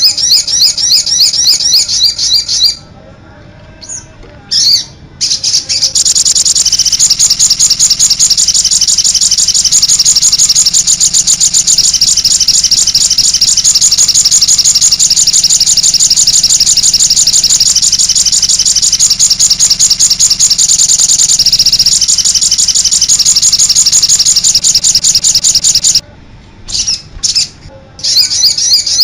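Recorded songbird song of the kind played as a 'master' track for training songbirds: a fast, dense run of high-pitched chirps repeated almost without a break, with short pauses about three seconds in and near the end.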